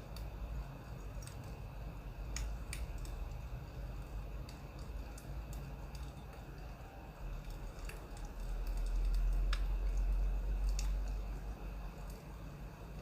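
Scattered small sharp clicks and ticks, a few seconds apart, over a low steady rumble that swells for a few seconds about two-thirds of the way in.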